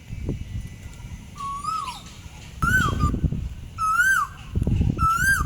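A bird calling four times, about a second apart. Each call is a single note that rises then drops sharply.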